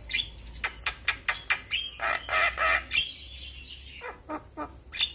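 Javan myna (jalak kebo) singing: a quick run of short, sharp notes, then a harsh, rasping phrase about two seconds in, and more short notes near the end.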